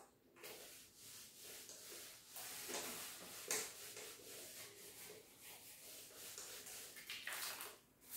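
Faint, irregular scratching strokes of handwriting as an equation is written out by hand.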